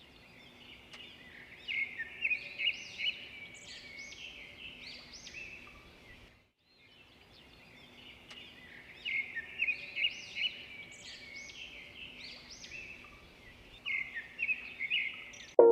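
Small birds chirping and twittering in quick, high calls over a faint steady low hum; the same stretch of about six seconds plays twice over. A louder, lower sound cuts in at the very end.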